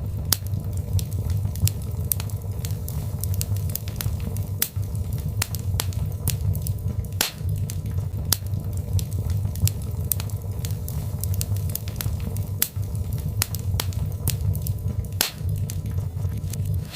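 Birch-log fire in a fireplace crackling, with irregular sharp pops over a steady low rumble of the flames; two louder pops come about halfway through and near the end.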